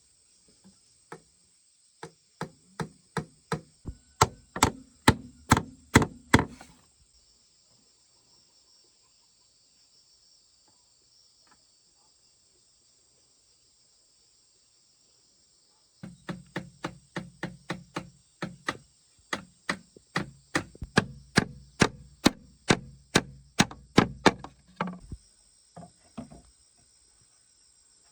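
Runs of quick, even blows of a tool striking wood, about three a second. The first run lasts about four seconds, then comes a pause of about nine seconds, then a longer run of about nine seconds. Insects shrill steadily throughout.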